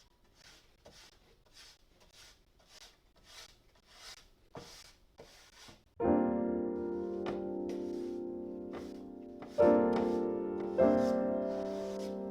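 Faint soft strokes, about two a second, like brushing or rubbing. About halfway through, background piano music starts with sustained chords, a new chord struck every second or so.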